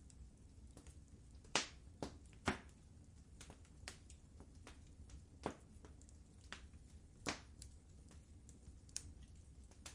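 Wood fire crackling in a fireplace: irregular sharp pops and snaps, the loudest about a second and a half, two and a half and seven seconds in, over a faint low rumble.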